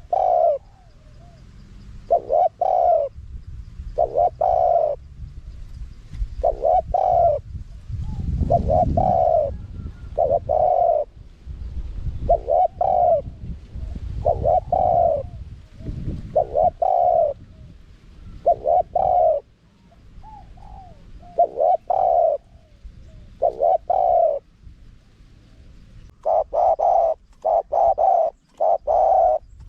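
Spotted dove cooing: repeated low coo notes in short groups, with a quicker run of coos near the end.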